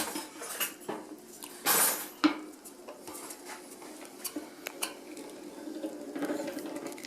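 Scattered metal clinks and rattles from a honey extractor drum being handled, with a louder clatter about two seconds in.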